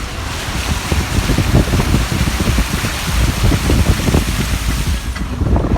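Steady rush of water on the flooded street, with an irregular low rumble underneath that gets a little louder about a second in.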